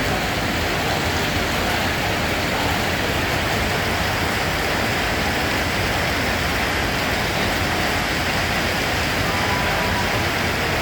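Steady heavy rain falling, a dense, even hiss of countless drops with no single drop standing out.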